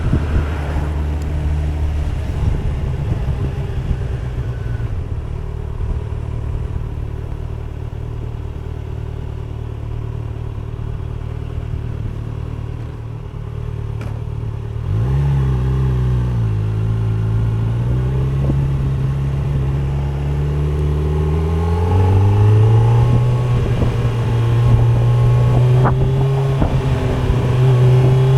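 2025 Kawasaki Z900's inline-four engine running steady at first, then picking up with its pitch rising about halfway in and again a few seconds later, where it holds at a higher pitch.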